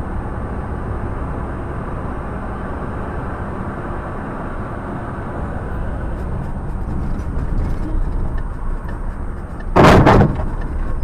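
A car driving, with steady road and engine noise, then a sudden loud collision impact near the end.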